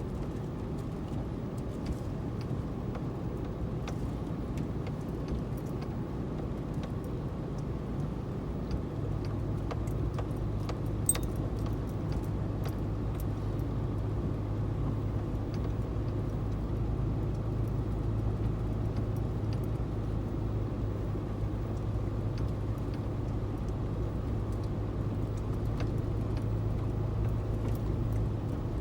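Car running and driving at a steady pace, a steady low hum that gets a little stronger about nine seconds in. Scattered small clicks and rattles, with one sharper tick about eleven seconds in.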